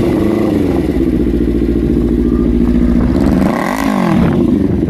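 Kawasaki Ninja 300's parallel-twin engine running at a fast idle, with a quick blip of the throttle about three and a half seconds in that raises the revs and lets them fall back.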